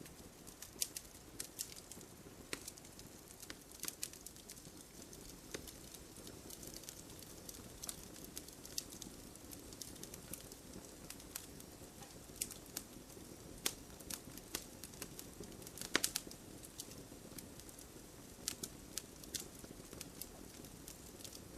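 Wood campfire crackling, with irregular sharp pops and snaps over a faint low hiss; a cluster of louder pops about three-quarters of the way through.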